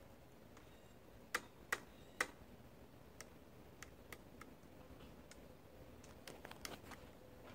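Woodpecker pecking at wood in irregular single taps: three loud taps close together about a second and a half in, then fainter scattered taps and a quick cluster near the end.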